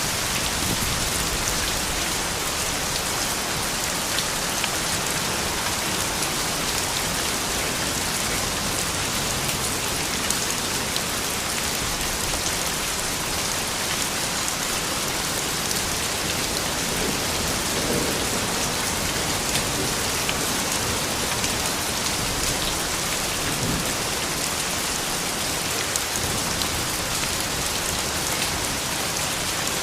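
Steady rain falling on hard surfaces, a dense even hiss with scattered drops heard individually.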